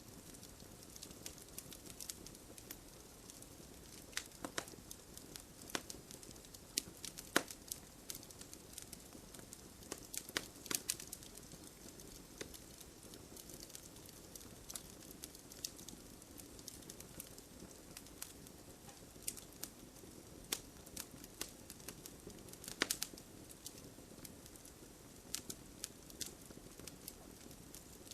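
Wood fire crackling steadily with irregular sharp pops and snaps over a low, even hiss. A few louder pops stand out.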